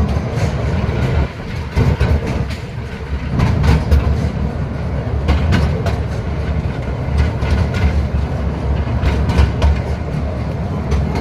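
Small lakeside joyride train running on its track: a steady low rumble of wheels with scattered, irregular clicks and clatter from the rails and cars.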